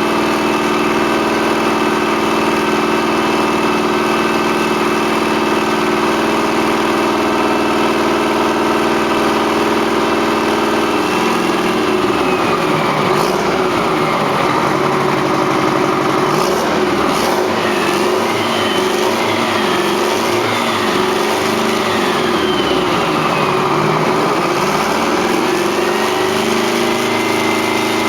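Rebuilt Detroit Diesel 8V92 two-stroke V8 diesel engine running on a test stand. It holds a steady note at first, then its note shifts and wavers up and down for a while before settling steady again near the end.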